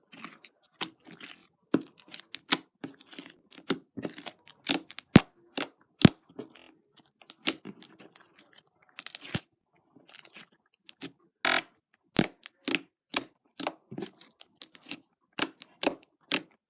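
Sticky liquid-starch slime being squished and stretched by hand, making irregular wet clicks and pops several times a second.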